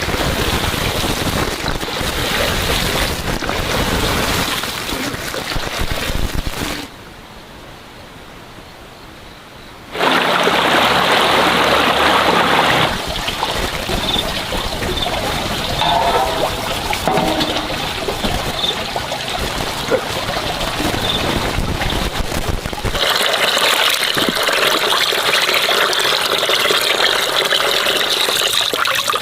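Running water trickling and splashing steadily. It drops away for a few seconds about a quarter of the way in, then comes back in changing stretches.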